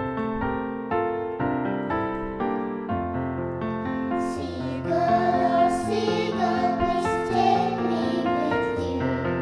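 A Christian song opens on a keyboard playing a piano-like intro, its notes changing about twice a second. About four and a half seconds in, singing voices come in over it.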